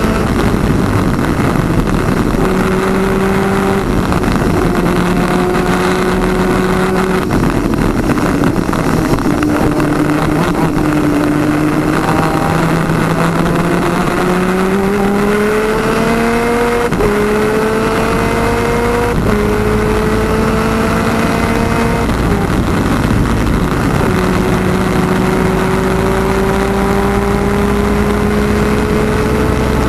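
Twin-cylinder 250cc two-stroke superkart engine at race speed. Its pitch steps lower through the first part, then climbs under acceleration with sudden drops at three gear changes, over a steady rush of wind and track noise.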